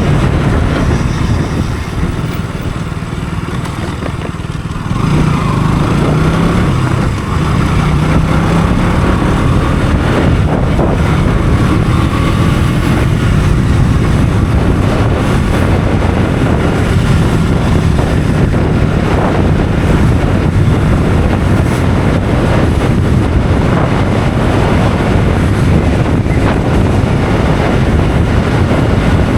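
Motorcycle engine running on the move, with wind rushing over the microphone. It dips a little quieter a few seconds in, then picks up again about five seconds in.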